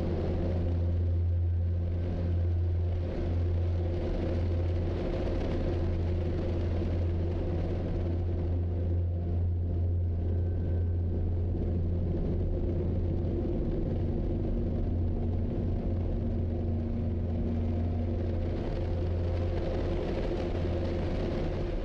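Steady, unbroken low drone of a vehicle running at constant speed.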